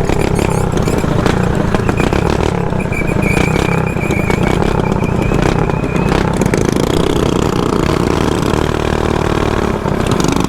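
Mini bike's small four-stroke engine running under way at riding speed, heard with wind on a helmet-mounted microphone.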